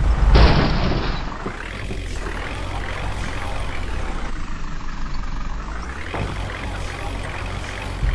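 Tractor engine running steadily with a low rumble, with a short burst of hiss lasting about a second near the start.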